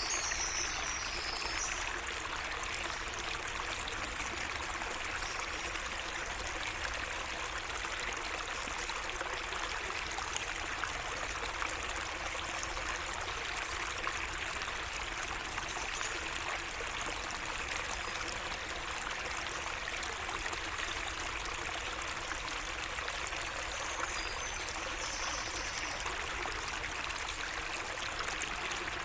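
Small garden stream trickling and splashing steadily, with a few brief high bird chirps just after the start and again near the end.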